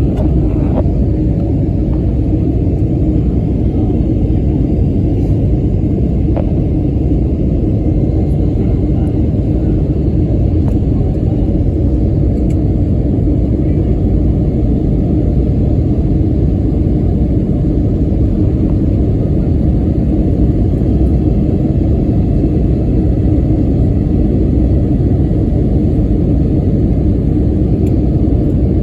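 Steady, even cabin noise inside an Airbus A321neo airliner: a low drone of engines and airflow from its Pratt & Whitney geared turbofans, heard from a passenger seat.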